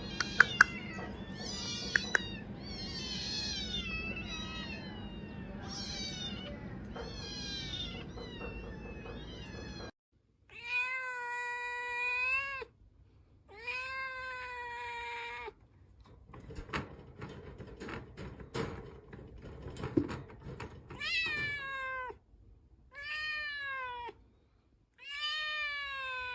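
Domestic cats meowing. First comes a rapid run of short, high-pitched meows with a few sharp clicks. Then, after a break, two long drawn-out meows of about two seconds each, some light knocking, and a series of shorter meows that fall in pitch.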